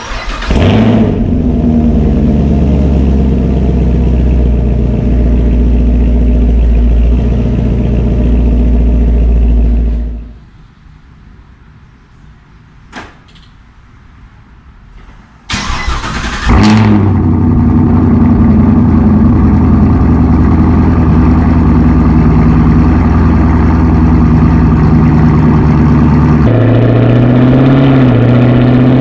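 2016 Chevrolet Camaro SS's 6.2-litre LT1 V8 on its stock muffled exhaust, started twice. It fires with a loud flare, idles steadily and is shut off about ten seconds in. About five seconds later it starts again with another flare, settles into idle, and near the end the idle changes and the revs begin to climb.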